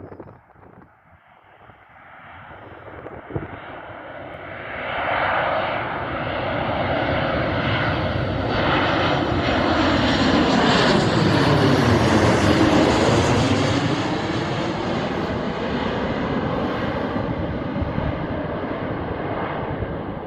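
Boeing 737 airliner on landing approach flying past close by. Its jet engine noise builds over about ten seconds from near quiet, peaks, then slowly fades.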